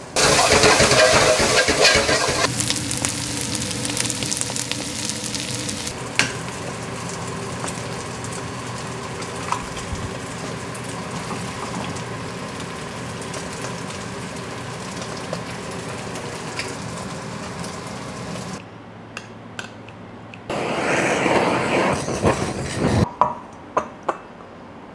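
Fried rice sizzling loudly in a hot wok as a metal wok ladle stirs and scrapes it. It gives way to a steady sizzle as an egg fries in hot oil in a nonstick pan. Near the end, a short burst of scraping with a few clinks.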